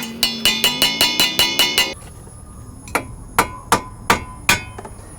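Hammer striking metal on a car's front suspension during a wheel hub replacement. A fast run of ringing metallic clicks for about two seconds, then five slower, separate blows.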